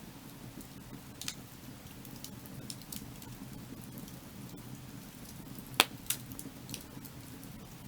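Wood fire burning, crackling with scattered sharp pops over a steady low rumble, one pop about six seconds in much louder than the rest.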